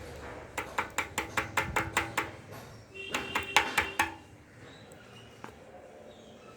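The plastic cap of a Yamaha RX100's 2T oil tank being turned open: a quick run of about ten sharp clicks, then a shorter burst of squeaky clicking about three seconds in.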